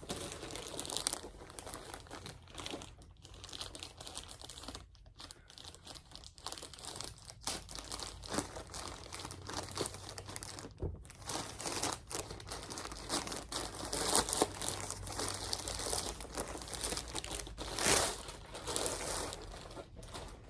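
Packaging crinkling and rustling as a parcel is unwrapped by hand, in an irregular run of crackles with louder crumples about two-thirds of the way through and near the end.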